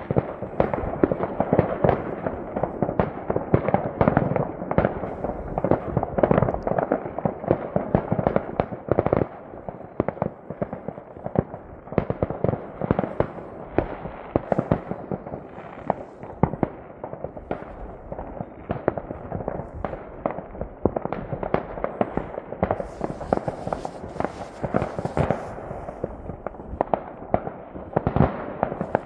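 Many fireworks and firecrackers going off at once in a dense, irregular crackle of bangs and pops, busiest in the first several seconds and again near the end.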